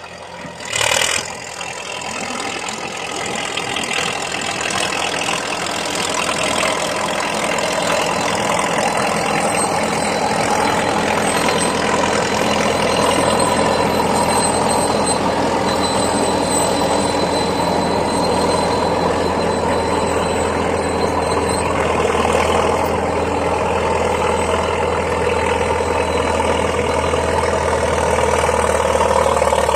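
Diesel engine of a Komatsu D50A crawler bulldozer running with an open, straight-through exhaust, building up louder over the first several seconds and then holding steady and loud. A brief loud clank comes about a second in.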